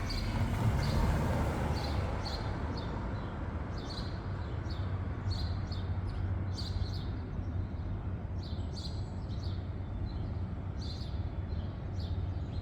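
Small birds chirping: short, high chirps repeated every half second to a second, over a steady low rumble.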